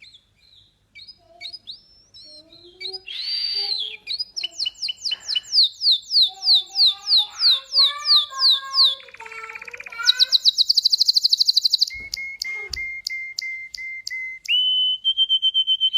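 Domestic canary singing a varied song: a run of repeated falling whistled notes, about three a second, then a very fast high trill, then a few sharp clicks and long steady held notes near the end.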